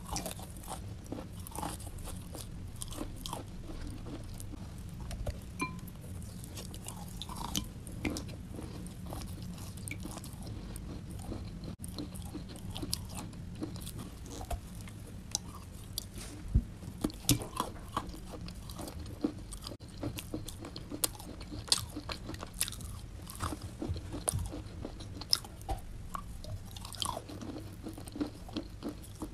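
Close-up chewing and biting of a dry white chalky block: irregular sharp crunches and crackles as mouthfuls are bitten off and ground between the teeth, the loudest crunches coming in the middle and latter part.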